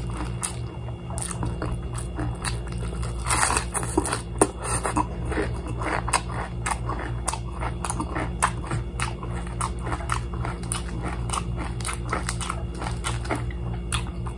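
Crispy deep-fried chicken being chewed close to the microphone: irregular crisp crunches throughout, over a steady low hum.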